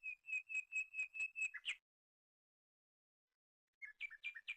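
A songbird whistles a quick run of about eight clear notes on one pitch, ending in a downward slur. After a pause of about two seconds it gives a shorter series of two-part whistled notes.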